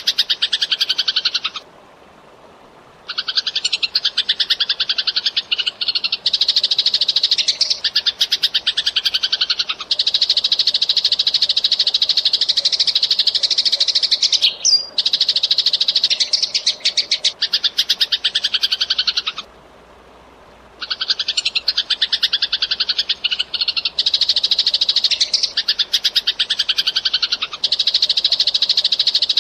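Eurasian tree sparrow chirping in a fast, dense chatter of rapid repeated chirps. The chatter breaks off briefly about two seconds in and again about twenty seconds in.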